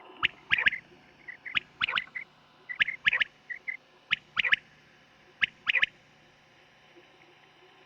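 Quail (batair) calling: five quick phrases of two or three sharp, high notes, about one phrase every 1.3 seconds, which stop about six seconds in.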